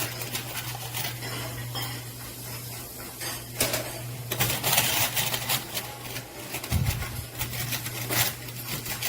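Quarters and plastic chips clinking and clattering as they are handled and gathered from a coin pusher machine's payout, a run of irregular clinks over a steady low hum.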